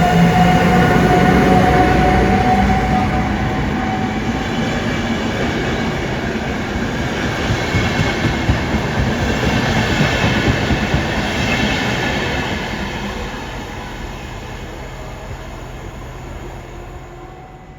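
Passenger train hauled by an electric locomotive moving through the station: rumbling wheels with a steady motor whine, loudest at first, then slowly fading as the train draws away.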